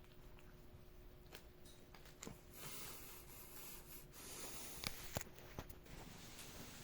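Faint rustling and rubbing with a few soft clicks, the two sharpest close together about five seconds in.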